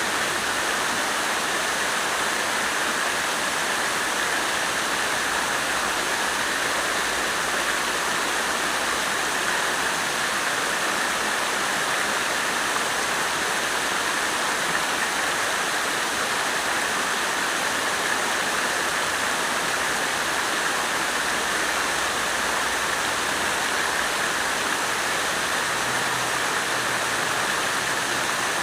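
Water fountain splashing steadily, an unbroken rush of falling water.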